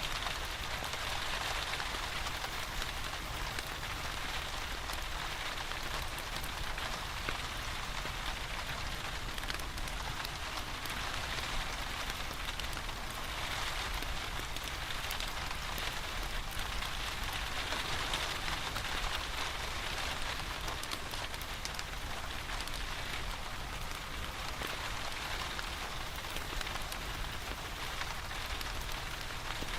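Steady rain with an even hiss, over faint crackling from a log fire in a fireplace.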